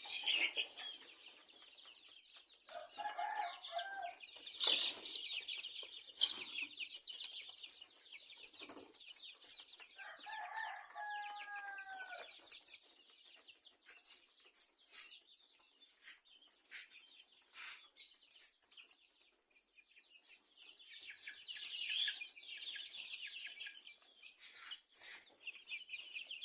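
A pen of KUB chickens of mixed sizes: a busy chorus of high peeping and chirping, with two longer pitched calls from a bigger bird about three seconds in and about ten seconds in.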